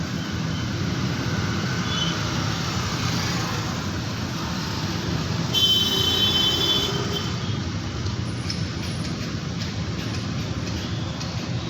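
Busy city road traffic: steady engine and tyre noise, with a vehicle horn sounding for about a second and a half around the middle.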